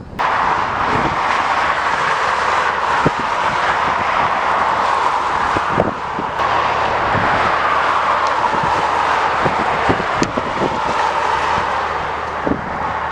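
Jet airliner engines running loud and steady, a broad even noise that eases a little near the end.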